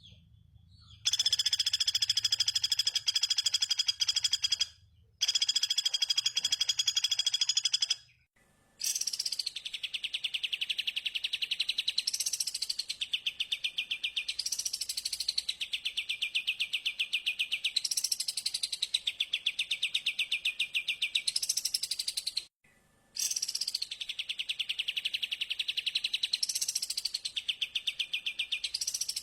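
Recorded bird calls played as a lure: a fast, buzzy trill held at an even pitch, broken by brief gaps. About nine seconds in it changes to a rapid ticking trill with a rising-and-falling whistled swoop about every three seconds, cut off abruptly twice.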